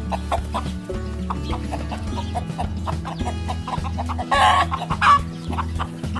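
Hens clucking in quick short notes, with a louder, harsher squawk about four and a half seconds in, over background music.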